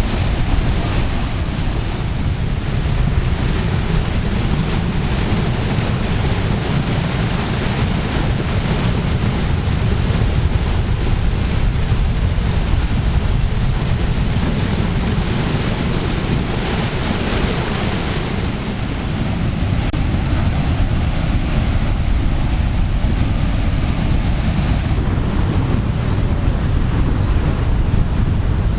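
Water rushing steadily along an irrigation canal, an even noise heaviest in the low end.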